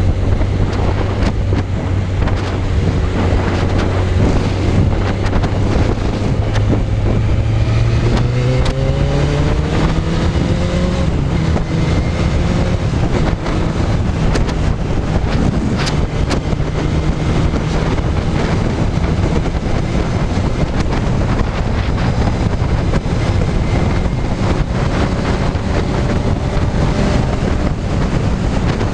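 Suzuki Bandit 600's inline-four engine running while the motorcycle is ridden, with steady wind noise on the microphone. About eight seconds in, the engine note rises as the bike accelerates, then holds steady.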